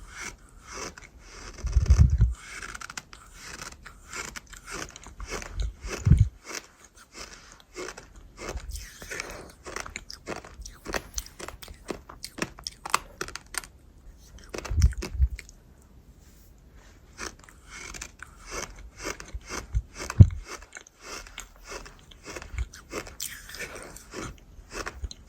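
Close-up crunchy, gritty chewing: a dense run of small crunches and crackles, with four heavier bites.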